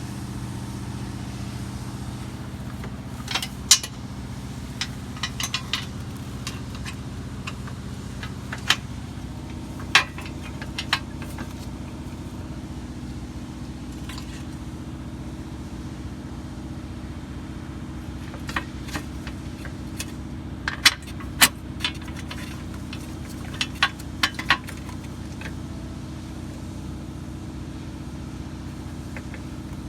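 Scattered sharp metallic clicks and clinks of hand tools and loose parts, in clusters, over a steady low mechanical hum.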